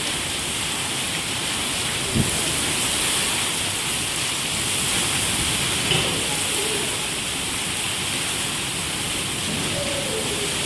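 Heavy rain falling steadily, with two brief knocks about two and six seconds in.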